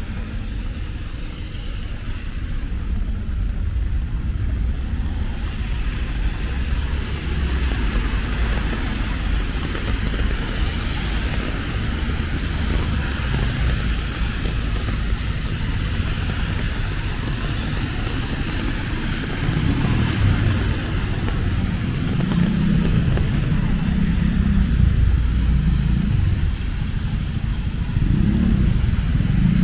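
Wet city street ambience: road traffic running past under an even hiss of rain, with passing voices, growing somewhat louder in the second half.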